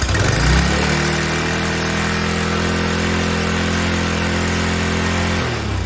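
Briggs & Stratton 7.75 gross-torque single-cylinder engine on a pressure washer catching on the first pull of the recoil starter and running steadily at a fast idle on its newly replaced carburetor, then shutting off and winding down near the end.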